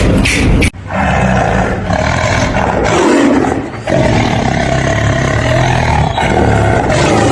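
Deep, rough calls from a large animal, in two long stretches: the first from about a second in, the second starting about four seconds in.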